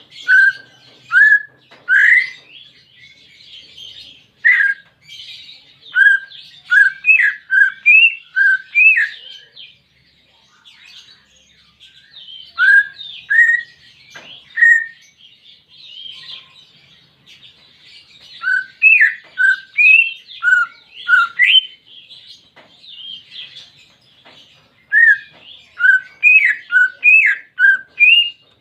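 Cucak ijo (green leafbird) singing: loud, short rising whistled notes in quick runs of several, broken by pauses of a second or more. A steady fainter high twittering runs behind them.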